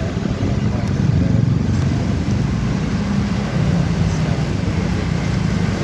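Motorcycle engine running steadily while riding, with wind and road noise; the engine note shifts slightly about three and a half seconds in.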